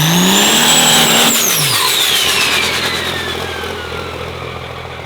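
Turbocharged diesel race truck engine revving hard, its pitch and a high turbo whistle climbing together. About a second in, the throttle is released: the engine note drops sharply and the turbo whistle winds down over several seconds as the sound fades.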